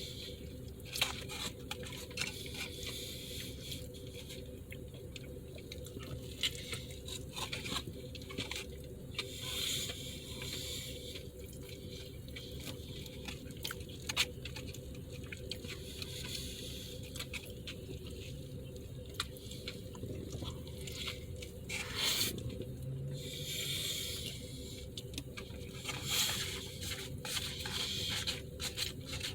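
Close-up chewing and wet mouth sounds of a man eating a burger: squishy smacking with frequent short clicks, over a steady low hum.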